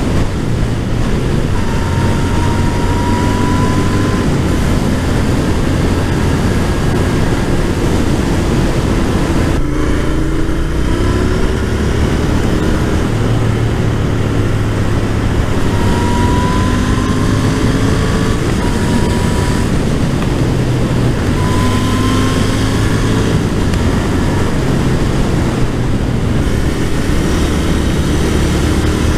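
2021 Royal Enfield Continental GT 650's parallel-twin engine through a loud aftermarket exhaust, ridden under load. Its pitch rises several times as it pulls through the revs, with a brief drop about ten seconds in, as at a gear change.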